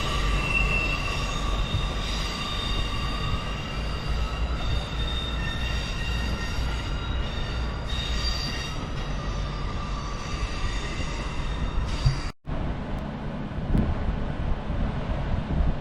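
Train wheels squealing on the rails in several thin high tones over a steady low rumble as a train moves through the station; the squeal fades away about nine seconds in. About twelve seconds in, the sound drops out for a split second, then a lower rumble carries on.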